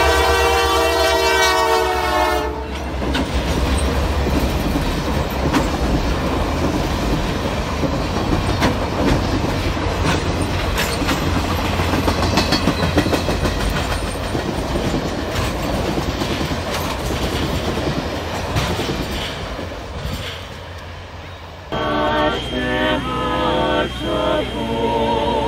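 Diesel locomotive air horn sounding a chord that stops about two and a half seconds in, then the train's cars rolling past close by, steel wheels clattering on the rails. Near the end the sound cuts to a small group of carolers singing.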